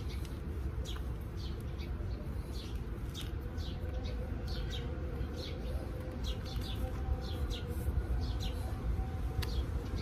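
Small birds chirping in quick, repeated short notes over a steady low rumble of outdoor background noise.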